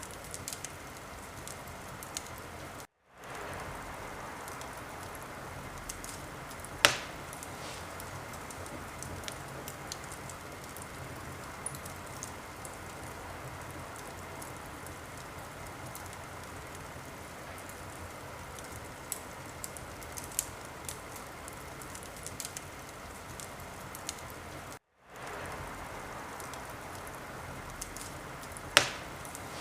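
Wood fire crackling: a steady soft hiss with many small scattered pops, and two sharp louder pops, about seven seconds in and near the end. The sound cuts out for a moment twice, about three seconds in and again about twenty-five seconds in.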